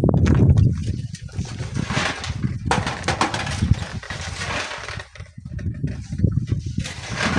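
Strong gusty wind buffeting the microphone: a low rumble that swells and drops unevenly, with a few short knocks near the middle.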